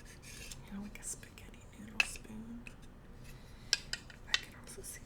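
Bamboo cooking utensils knocking together: four sharp clacks, one about two seconds in and three close together in the second half.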